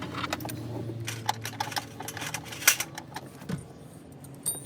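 Irregular metallic clicking and clinking of tools on engine parts, over a low steady hum.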